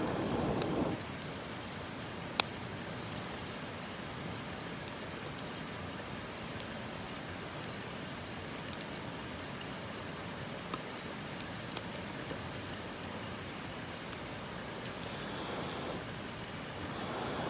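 Wood campfire burning: a steady hiss with a few sharp, sparse crackles, the loudest about two seconds in. A low rush of sound comes at the start and again near the end.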